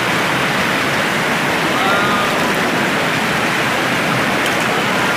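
Steady, loud rush of flowing spring water, an even noise without breaks.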